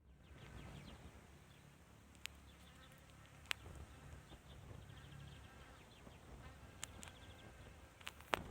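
Faint buzzing of a flying insect, with a few sharp clicks scattered through, the last and loudest near the end.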